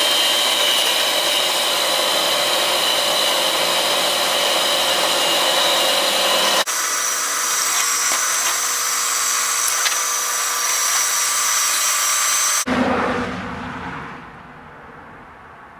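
Electric drill running under load, boring holes through thick steel tube and angle iron, with a steady high whine; near the end the drill is let off and winds down.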